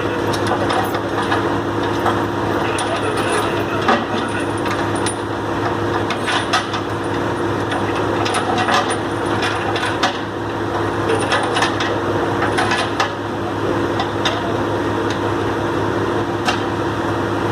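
Truck engine running steadily at idle, with scattered metallic clicks and knocks over it.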